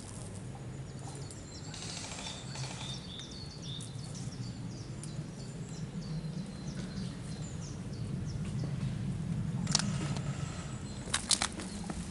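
Small birds chirping, with a steady low rumble underneath and a few sharp clicks near the end.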